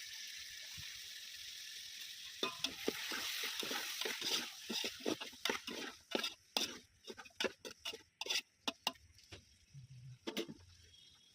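Food sizzling in hot oil in a pan, then being stirred, with a spoon scraping and knocking against the pan many times. The sizzle fades away about halfway through.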